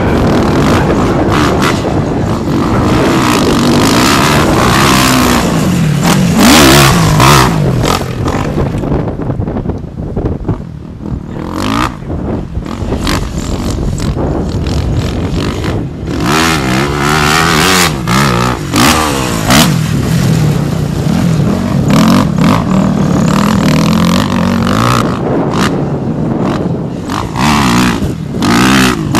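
Kawasaki KX250F motocross bike's four-stroke single-cylinder engine being ridden hard, revving up and easing off over and over so the pitch climbs and drops, with bursts of rough noise over it. It goes quieter for a couple of seconds about ten seconds in.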